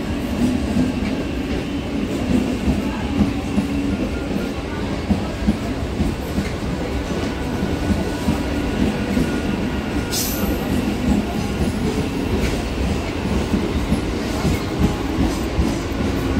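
Mumbai suburban local electric train running past, its wheels clattering rapidly over the rail joints under a steady low hum. A brief high-pitched burst comes about ten seconds in.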